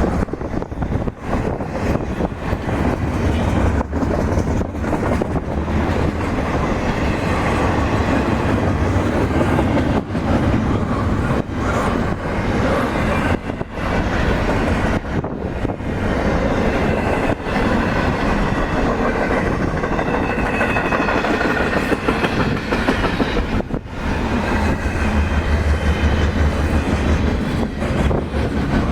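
A railway train rolling past with a steady, loud rumble that lasts the whole stretch, and faint high tones coming in during the second half.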